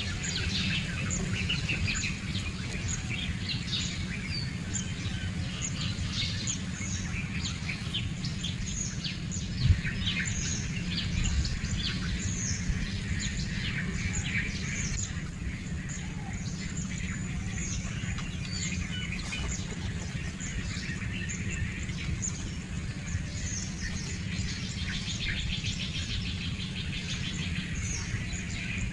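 Birds chirping, many short high calls scattered throughout, over a steady low wind rumble. A single brief thump about ten seconds in.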